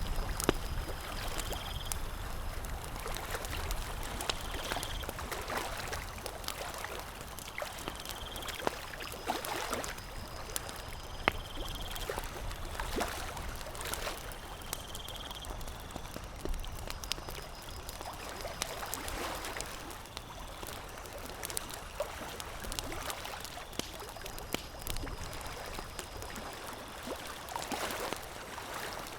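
Lake water lapping and trickling, with scattered sharp crackles throughout. A short high chirp repeats every three to four seconds during the first half.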